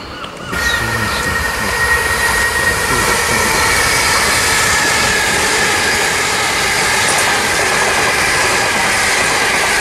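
Gatwick Express Class 387 electric multiple unit passing through the station at speed: a loud, steady rush of wheels on the rails with a high, steady tone above it. It begins abruptly about half a second in.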